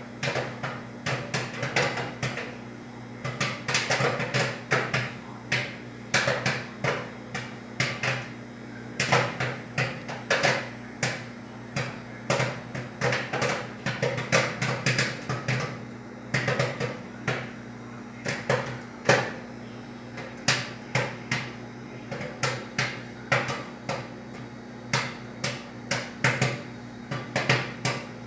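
Electrolux ME41X microwave oven running with a steady low hum, while many sharp irregular pops or knocks, several a second, sound from inside it.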